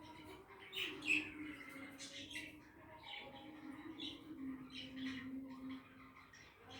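Budgerigars chirping and chattering: many short, quick chirps in an irregular stream, the loudest a little after one second in.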